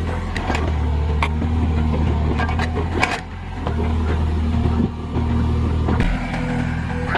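Excavator's diesel engine running under working load, with many sharp knocks and cracks from the machine working the ground. The engine note dips briefly about three seconds in and again near the end.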